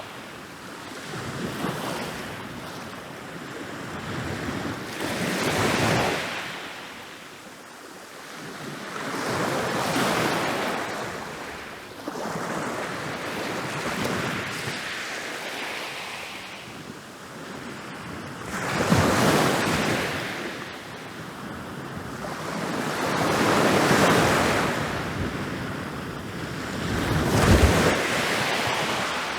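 Ocean waves rolling in and breaking on a beach, a wash of surf that swells and ebbs every few seconds, the loudest breaks coming about two-thirds of the way through and near the end.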